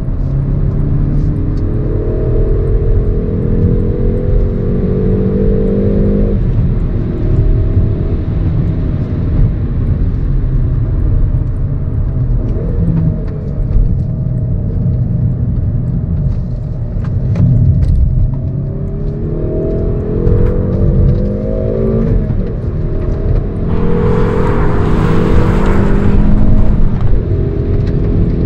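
Hyundai i30 N Fastback's turbocharged 2.0-litre four-cylinder heard from inside the cabin, accelerating hard: the engine note climbs and drops back at each upshift of the manual gearbox, several times over. Near the end comes a loud rushing burst lasting about two seconds.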